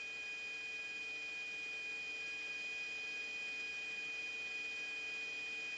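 Steady faint electronic whine and hum over hiss on an open radio or intercom channel between transmissions, with one high tone standing out above the rest.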